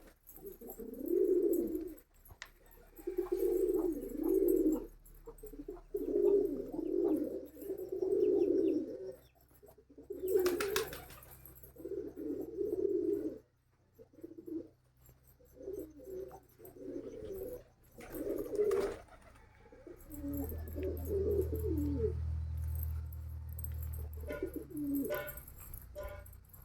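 Domestic fancy pigeons cooing over and over in low, rolling phrases of about a second each. A low steady hum joins in about three-quarters of the way through.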